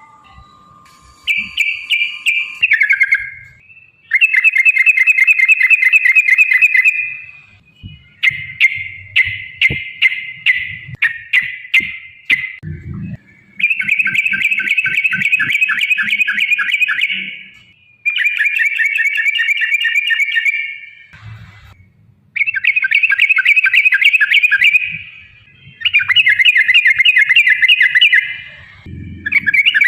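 Yellow-vented bulbul song: loud, bubbling, warbled phrases of two to four seconds each, repeated again and again with short pauses between them.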